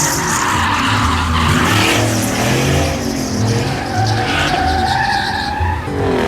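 Truck burnout: an engine revving hard while the spinning rear tyres squeal and hiss against the pavement, the pitch rising and falling with the revs.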